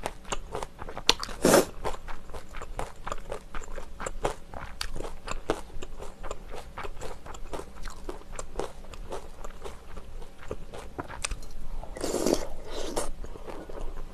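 Close-miked chewing of a spoonful of beef rice-cake soup (tteokguk): a steady run of small wet clicks and crunches from the mouth. There are two louder, longer noisy sounds, one about a second and a half in and one near the end.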